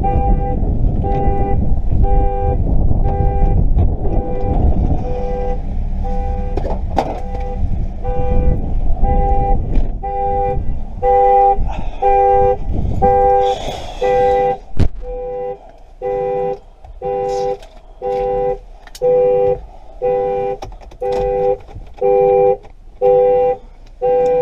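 Chevrolet Captiva's car alarm sounding the horn in an even on-off pulse, about one and a half honks a second, a sign the anti-theft system has been triggered. A heavy low rumble runs under it for the first half, then drops away.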